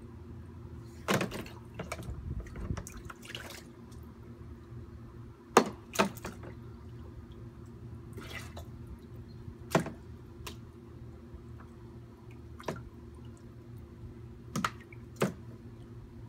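Water splashing and dripping in a Step2 water play table: a string of short, irregular splashes over a steady low hum.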